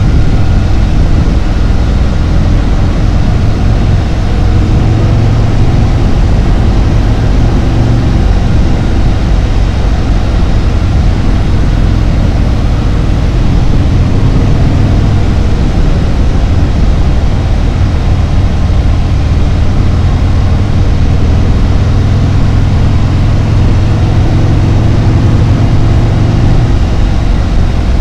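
Harley-Davidson Road Glide's V-twin engine running steadily while the motorcycle cruises.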